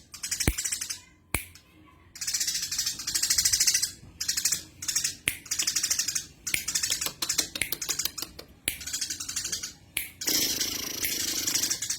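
Eurasian tree sparrow chattering: bouts of rapid, high, clicking chirps, each a second or two long, with short breaks between.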